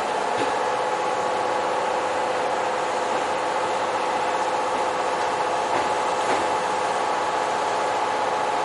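Kintetsu electric commuter train's steady hum, with two steady tones over an even noise and a few faint clicks.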